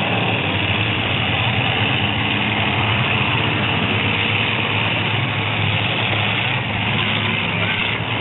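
Full-size demolition derby truck engines running in a steady, loud din.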